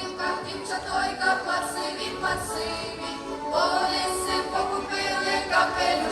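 A group of voices singing Boyko kolomyikas, lively Ukrainian folk songs, over instrumental accompaniment.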